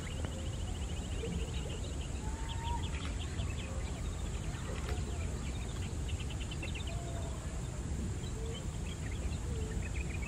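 Small birds chirping in quick high trills, with a few short lower calls, over a steady low rumble.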